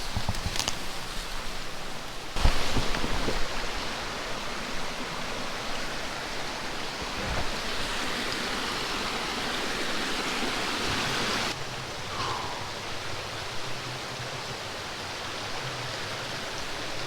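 Steady rushing hiss of rain and running creek water in wet bush, with a few short knocks and rustles about two and a half seconds in. The wash changes abruptly in level twice.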